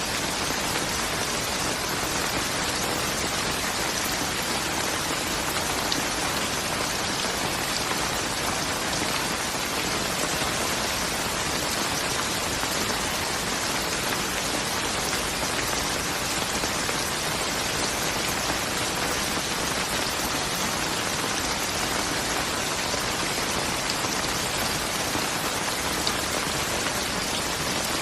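Steady rain falling, an even dense patter with scattered small drop ticks.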